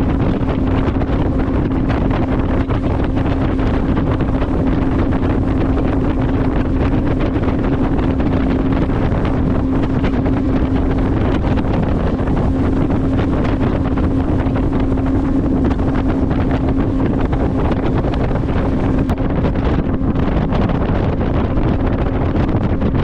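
Motorboat engine running at a steady pitch under way, with wind rushing over the microphone.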